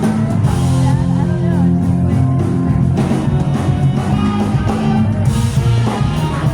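Live rock band playing: electric guitar, bass and drum kit.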